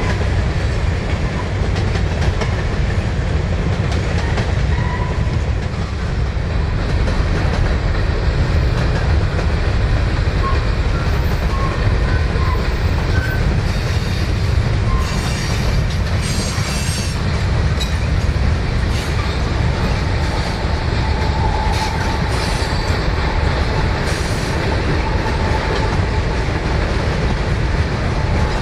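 Freight train rolling past, a steady heavy rumble of cars and wheels on the rails, with short high-pitched wheel squeals now and then, clustered about halfway through and again a few seconds later.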